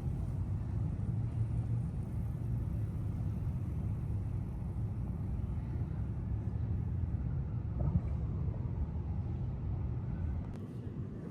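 Steady low rumble of outdoor city ambience, most likely road traffic, with a slight drop in level near the end.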